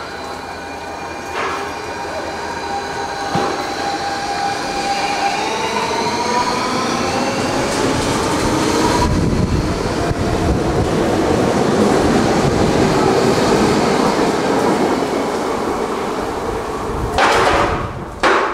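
Electric Copenhagen S-train moving off past the platform, its motor whine climbing in pitch as it speeds up, then the rumble and clatter of its cars on the rails, loudest in the middle and fading toward the end. A couple of sharp knocks near the end.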